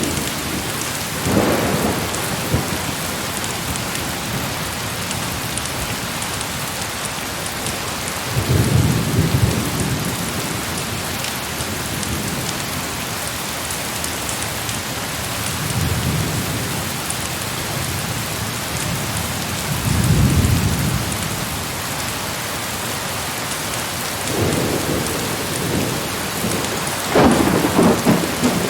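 Heavy rain pouring steadily, with several rolls of distant thunder rumbling up and fading away. The loudest roll comes near the end.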